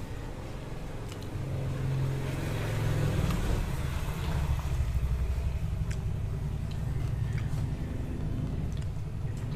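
A motor vehicle's engine running close by, a low rumble that grows louder about two seconds in and holds, with a few faint clicks of chewing over it.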